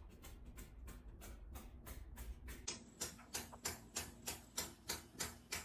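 Steady ticking, about three and a half sharp ticks a second, growing louder from about halfway through.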